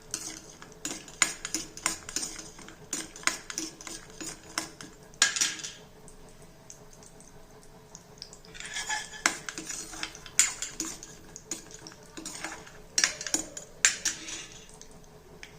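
A spatula stirring nuts (cashews, almonds, walnuts) as they roast in a kadhai: irregular clicks, taps and scrapes against the pan, busiest in the first five seconds, a lull in the middle, then more scraping strokes.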